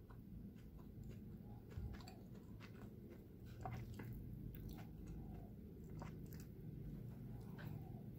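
A person biting into and chewing a soft cinnamon roll close to the microphone: faint, scattered wet mouth clicks and smacks over a low steady hum.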